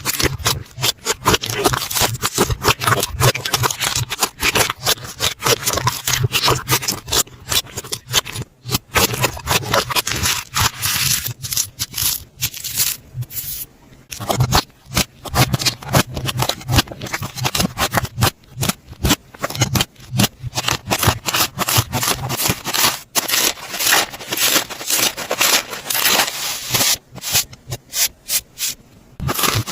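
Slime being handled by hand, giving a dense, continuous run of crackling clicks.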